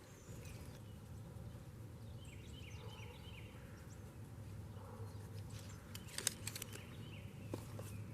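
Quiet outdoor ambience with a steady low hum. About three seconds in there is a short run of brief high chirps, and a little past the middle a few sharp rustling clicks.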